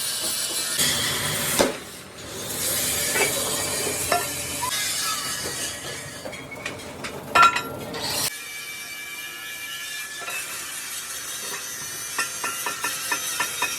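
Metalworking shop noise as mild steel sheet is worked: a steady mechanical hiss with a few sharp metal clanks, and a quick run of ticks near the end.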